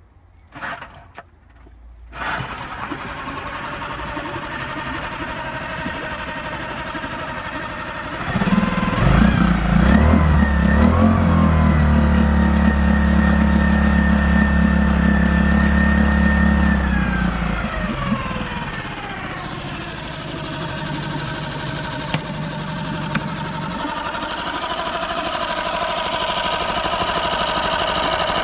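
Aiqidi 8 hp outboard motor starting about two seconds in and running. About six seconds later it is throttled up and holds steady at high revs for several seconds. It then drops back to a lower speed, picking up slowly toward the end.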